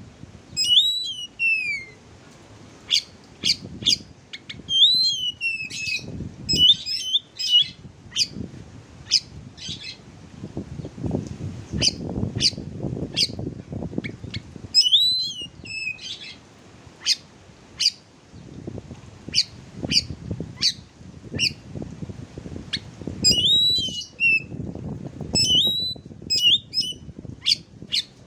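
Oriental magpie-robin (kacer) song material: runs of short sharp chips, at times about four a second, broken by repeated whistled notes that slide down in pitch. A low rumble of background noise rises and falls underneath.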